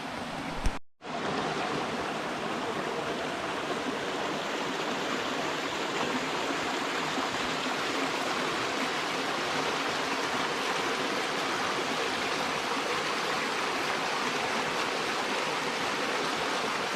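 Running water from a stream rushing steadily. It breaks off briefly about a second in, then runs on unchanged.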